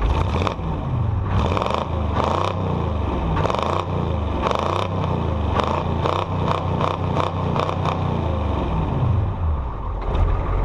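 Non-turbo 6.2 L diesel V8 in a Chevrolet K30 truck, revved up from idle and held at raised rpm, then dropping back to idle about nine seconds in. The engine is still cold.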